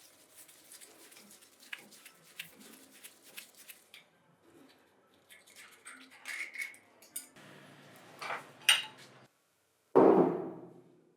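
Metal parts of a handheld external concrete vibrator being handled with hand tools during disassembly: scattered light clicks and clinks, then a single loud hammer blow on metal near the end that rings out for about a second.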